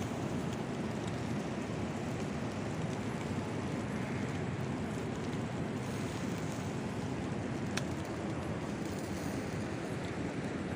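Steady rushing noise of wind and surf, with a single sharp click about eight seconds in.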